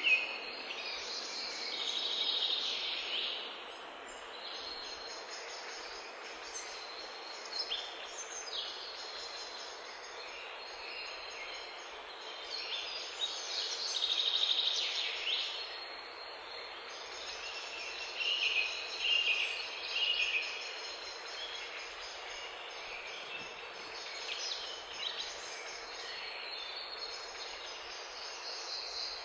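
Birds chirping and calling on and off over a steady background hiss, with a faint hum.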